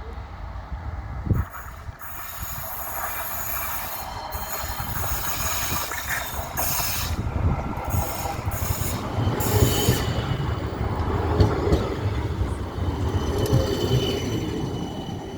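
Midland Metro tram running on street track, a low rumble with high-pitched wheel squeal from the rails. It grows louder towards the middle and eases off near the end.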